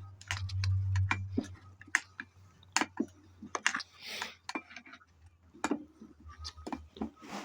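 Irregular clicks and light metallic knocks as a tractor engine's flywheel is turned over by hand to line up the timing mark for valve adjustment.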